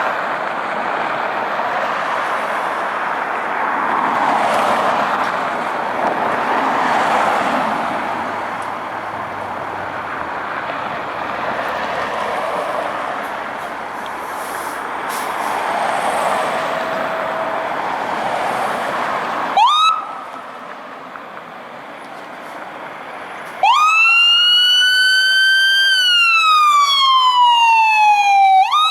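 For most of the time, a loud, broad rushing noise that swells and eases. About 20 s in, the fire engine's siren gives a brief rising chirp. Near the end, its electronic siren wails, climbing, slowly sliding down, then climbing again.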